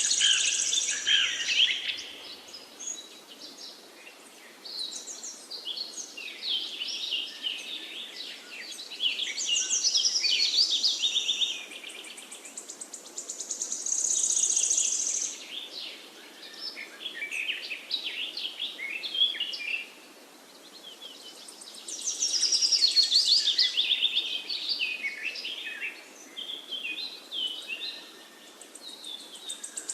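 Several forest birds singing over one another, overlapping trills and chirps coming in louder clusters every few seconds, over a faint steady background hiss.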